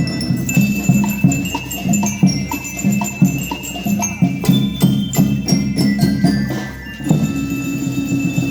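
A school rhythm band playing: ringing metal bell notes over a steady drum pattern and sharp percussion strikes, dipping briefly just before the music picks up again near the end.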